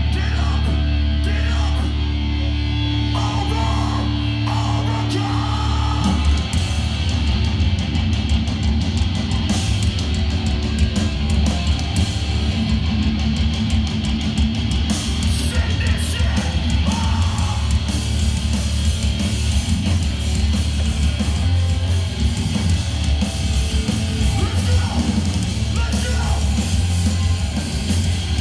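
Hardcore punk band playing live: distorted guitars, bass and drums with shouted vocals. A held low chord rings for the first several seconds, then the full band and drums kick in about six seconds in.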